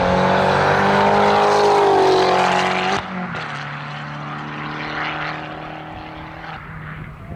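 Competition car engine at full throttle on a hillclimb run, its note rising as it accelerates. About three seconds in it drops abruptly to a quieter, more distant engine that fades away.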